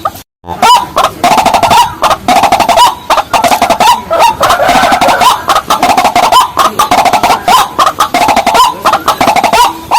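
Rails of the waterhen kind calling: a loud, near-continuous run of short, repeated notes, several a second. The calling breaks off for a moment just after the start.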